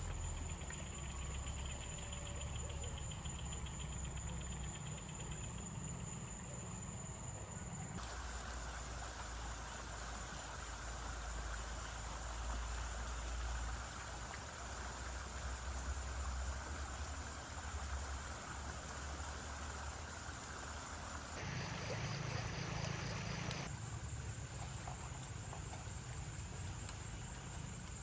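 Crickets and other insects chirring in a steady, high-pitched chorus, with a low rumble underneath. The sound changes abruptly about 8 seconds in and again about 21 and 24 seconds in.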